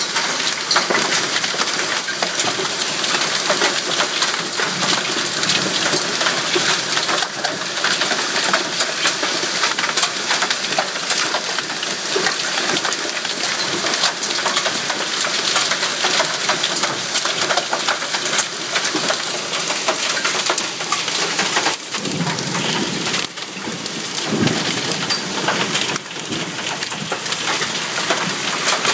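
Hailstorm: hailstones pelting down thick and fast, a dense, steady clatter of countless small hits on hard surfaces.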